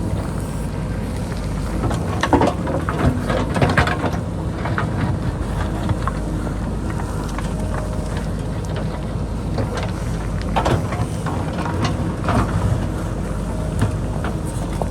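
JCB backhoe loader's diesel engine running steadily at work, with bursts of clanks and scraping as the bucket digs into rocky hillside soil, about two seconds in and again past the ten-second mark.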